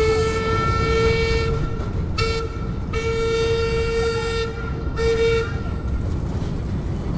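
Train whistle blown in four blasts, long, short, long, short, over the steady rumble of the moving train.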